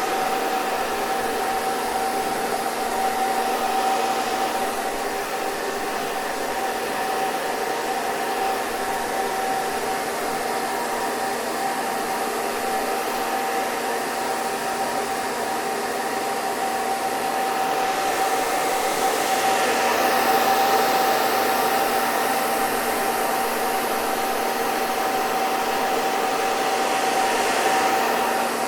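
Hair dryer running continuously: a steady rush of air with a constant motor whine, swelling slightly about two-thirds of the way through.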